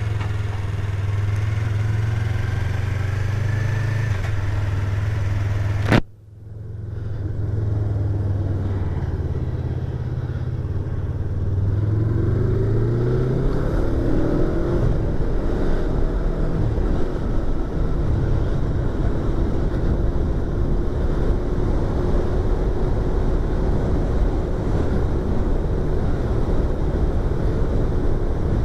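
Yamaha YZF-R25's 250 cc parallel-twin engine running steadily, heard from inside the rider's helmet. About six seconds in there is a sharp click and a brief dropout. Around twelve seconds the revs rise as the bike accelerates, and the rest is riding at speed with steady wind rush over the helmet.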